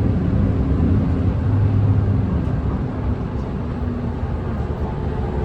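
Nissan Diesel Space Runner city bus heard from inside the cabin: its diesel engine runs with road noise, a low hum whose engine note shifts up and down as it drives.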